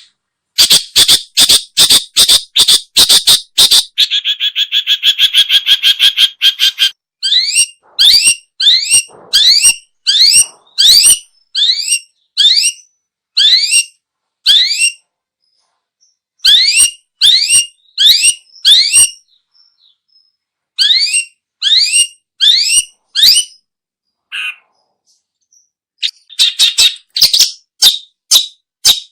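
Long-tailed shrike calling: a quick run of sharp harsh notes, a few seconds of buzzy churring, then repeated groups of short, rising chattering notes with pauses between them.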